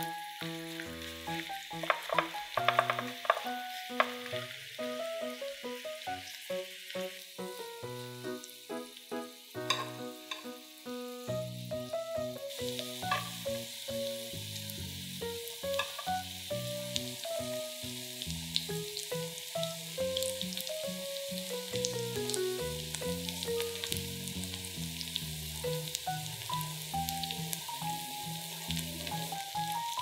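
Batter-coated julienned sweet potato and green onion sizzling in oil in a nonstick frying pan as chopsticks stir and spread them, with a few sharp clicks in the first few seconds; the sizzle grows stronger about twelve seconds in. A simple background melody plays under it.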